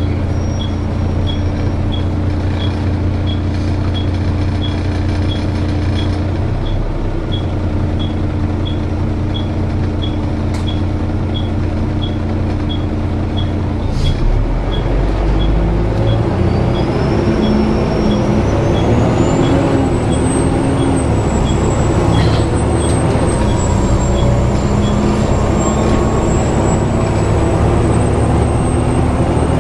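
Volvo B7TL double-decker bus heard from on board, its diesel engine idling with a regular light ticking about two and a half times a second. About halfway through, the engine works harder and a thin, high-pitched squeal, which the uploader ties to the cooling fan, rises in pitch and then holds high.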